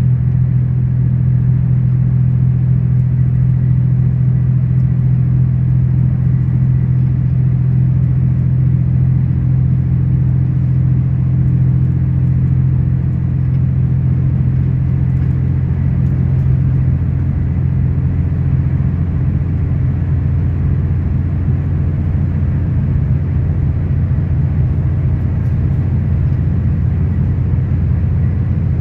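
V/Line diesel passenger train running at speed, heard from inside the carriage: a steady low rumble that eases a little after the middle.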